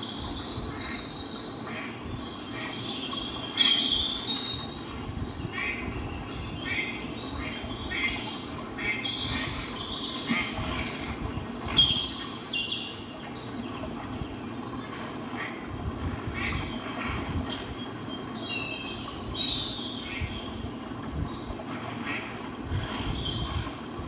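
Birds calling in a steady stream of short, high, falling chirps and peeps, several a second, over a steady low rumble.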